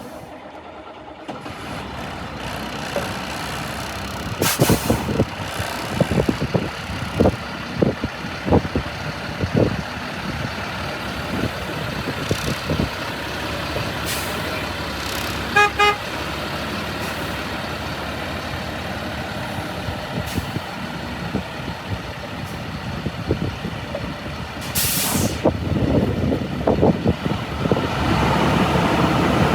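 2006 Freightliner M2 flatbed truck's diesel engine running, with knocks and clunks. There is a sharp air-brake hiss about four seconds in and another near 25 seconds, and two short beeps around the middle. The engine gets louder near the end.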